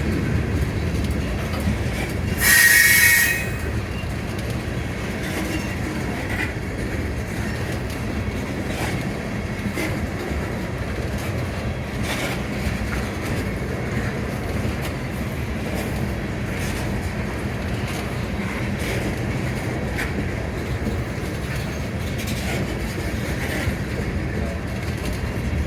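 Florida Gulf & Atlantic freight train rolling past: a steady rumble of wheels on rail with faint clicks over the rail joints. About two and a half seconds in, a brief, loud, high wheel squeal.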